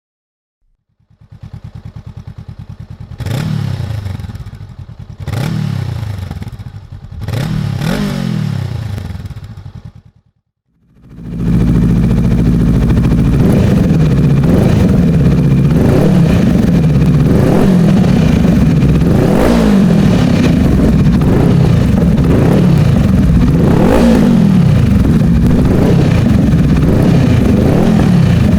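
Honda CMX500 Rebel's parallel-twin engine through a GRmoto X Series aftermarket exhaust: idling with three short throttle blips, stopping, then after a brief gap running loud and continuously with its pitch repeatedly climbing and dropping.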